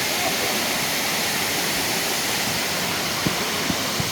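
Waterfall rushing steadily, a dense even roar of falling water, with two short knocks a little before the end.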